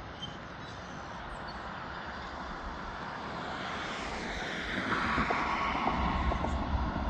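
A passing train's rushing noise that builds steadily louder, getting much louder about five seconds in, with a low rumble underneath and a few sharp clicks.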